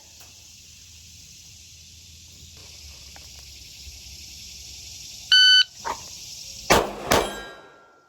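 A shot timer's start beep, then about a second and a half later two pistol shots from a Glock drawn from the holster, under half a second apart. A faint ring lingers after the second shot.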